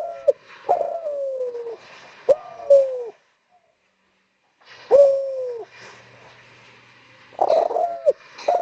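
Spotted dove (derkuku) cooing: three runs of hoarse, falling coo notes with a short pause between runs. Sharp clicks come in among the notes.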